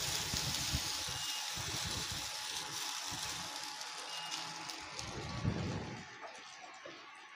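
Muthiya pieces sizzling in hot oil in a nonstick pan, with low knocks as the pan is tossed on the induction cooktop early on; the sizzle slowly dies down toward the end.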